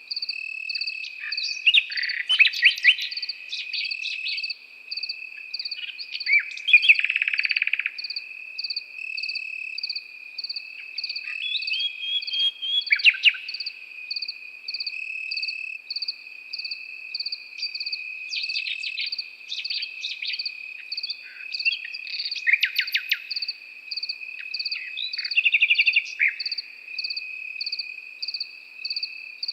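A nightingale singing short varied phrases of rapid repeated notes and trills, with pauses between them, over crickets chirping steadily and continuously with a fast pulsing rhythm.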